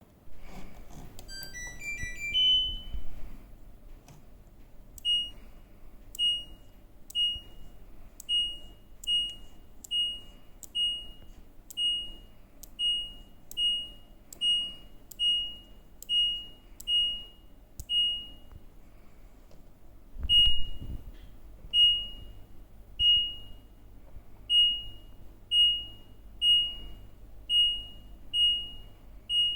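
LG washing machine's control-panel beeper: a short rising chime near the start, then a long series of single short beeps of the same pitch, about one a second. They pause for a couple of seconds about two-thirds through, where a low thud is heard, and then resume.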